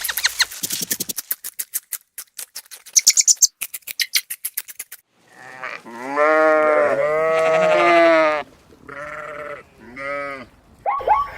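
Rapid dry clicking for about five seconds, then a sheep or goat bleating: one long wavering bleat followed by two short ones.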